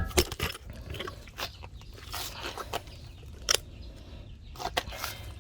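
Scattered metal clicks and knocks as the truck's front shock assembly, stuck in place, is wiggled and worked free; the sharpest knocks come about three and a half seconds in and twice near the end.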